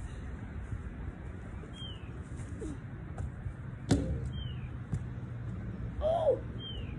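Short downward-sliding bird chirps repeat every second or two over a steady low outdoor rumble, with one sharp knock about four seconds in.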